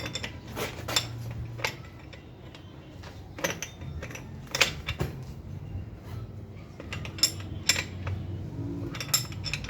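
Metal tools and bicycle parts clinking and tapping together irregularly during bike assembly, about a sharp click a second, over a low steady hum.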